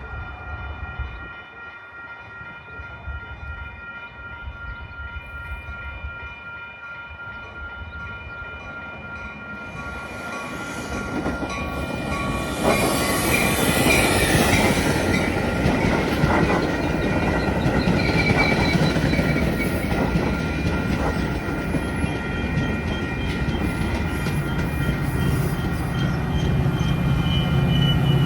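A train approaching and passing. Steady high tones sound for the first third, then the rumble and wheel noise grow loud about ten seconds in, with clickety-clack from the wheels over rail joints.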